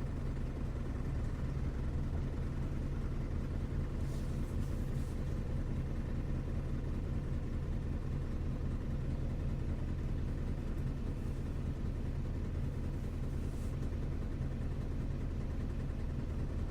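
Isuzu U-LV224N bus's 6QB2 diesel engine idling steadily, heard from inside the cabin, with two faint brief hisses about four and thirteen seconds in.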